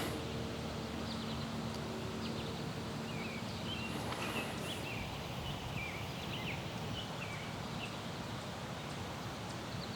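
Small birds chirping now and then, in short scattered calls, over a steady outdoor background of wind-like noise, with a faint low hum for the first few seconds.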